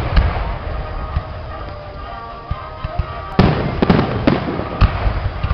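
Aerial fireworks shells bursting, with crackling trailing off after a burst just before the start. About three and a half seconds in comes a loud boom, followed by several sharp bangs in quick succession.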